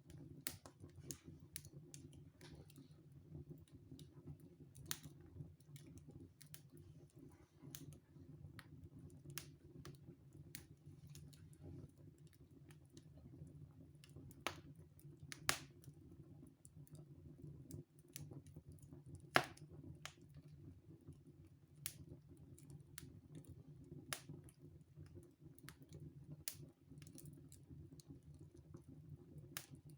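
Wood fire burning in a fireplace, crackling with irregular sharp pops and snaps over a steady low rumble, the loudest snap about two-thirds of the way through.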